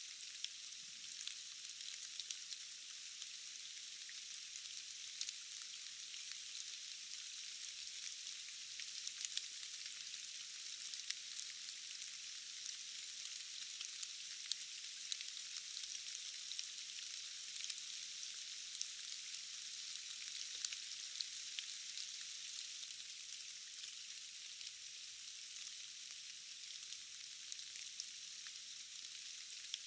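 Steady rain falling, a dense even hiss sprinkled with many small sharp drop ticks.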